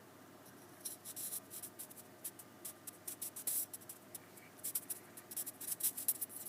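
Irregular scratchy rustling: a quick run of short, high scraping sounds starting about a second in, like fingers or cloth rubbing close to the microphone.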